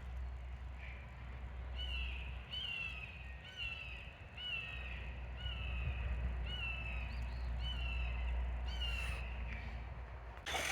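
A bird calling over and over, a short falling note repeated about once a second, over a low steady hum.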